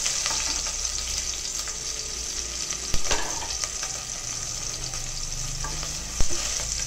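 Shallots, garlic and green chillies sizzling in hot oil in an aluminium pressure-cooker pot, stirred with a wooden spatula. The spatula knocks against the pot twice, about three seconds in and again near the end.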